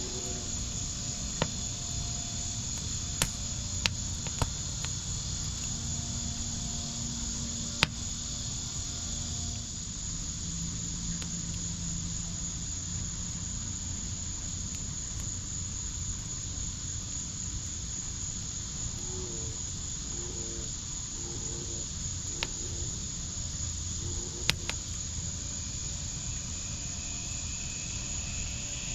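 Wood fire in a backyard fire pit, burning with a low steady rush and a scattering of sharp crackles and pops, the loudest about eight seconds in. Over it runs a steady, high insect chirring.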